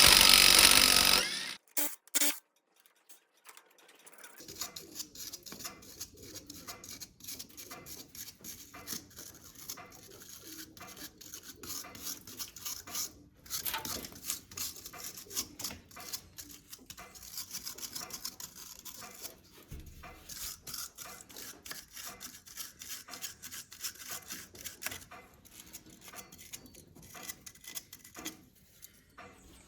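A short, loud power-tool burst at the very start, then a long run of quick, dense rubbing and scraping strokes from hand work on metal parts.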